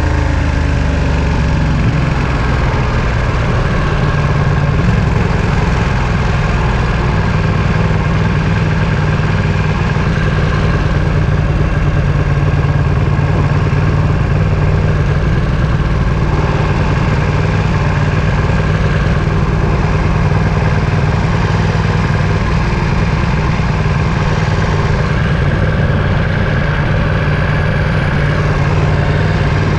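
Ducati Panigale V2's 955 cc L-twin engine with its revs dropping at the start, then running steadily at low revs.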